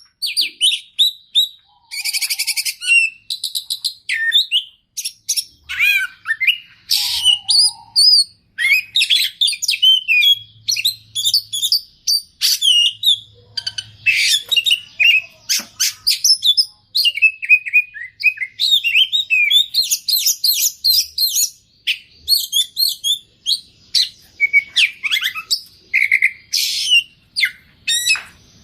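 Oriental magpie-robin (kacer) singing non-stop, a loud, fast, varied song of whistles, chirps and rapid trills. The song is packed with mimicked phrases of other birds' calls.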